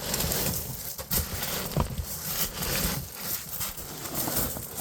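A person crawling through a crawl space: irregular scuffing, rustling and scraping with scattered knocks as knees and hands move over the ground.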